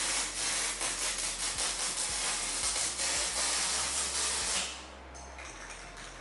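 Rust-Oleum aerosol spray can spraying paint in one long steady hiss that stops about three-quarters of the way through.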